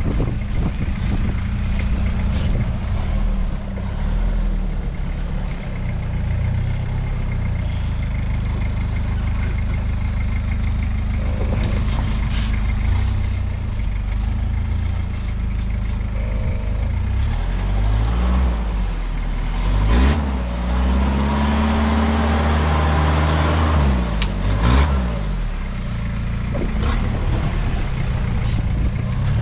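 Toyota Hilux's turbo-diesel engine running at low revs as the truck crawls over rock, revved up and down in several surges over a stretch in the second half. A few sharp knocks come through, the loudest near the revving.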